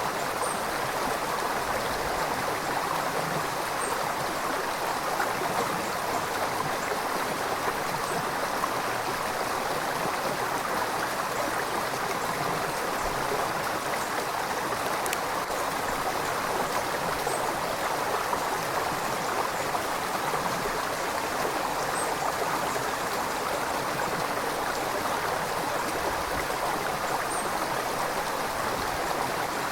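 River water flowing steadily over rocks in a continuous, even rush.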